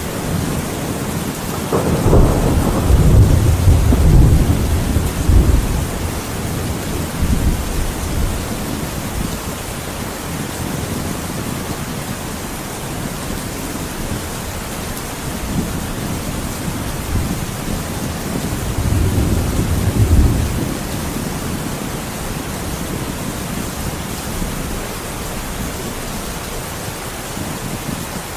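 Thunderstorm: steady heavy rain with two rolls of deep thunder, a long loud one a couple of seconds in and a shorter one about two-thirds of the way through.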